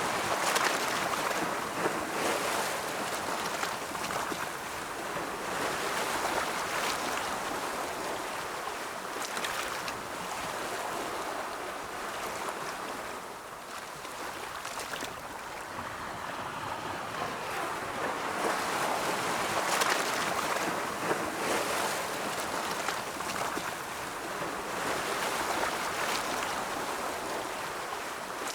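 Ocean waves rolling onto a shore: a continuous wash of surf that swells and eases every few seconds, with a quieter lull about halfway through.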